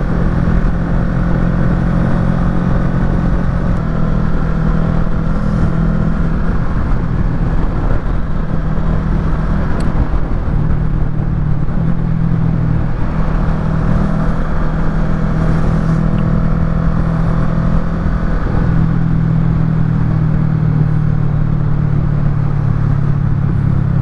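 Kawasaki Ninja 650's parallel-twin engine through a Yoshimura full exhaust, running steadily at low, unhurried speed in traffic. Its note steps slightly up or down a few times and never revs hard, over a constant low rumble.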